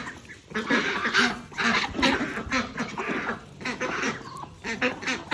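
Farm ducks quacking loudly, a rapid run of short raspy calls, several birds overlapping.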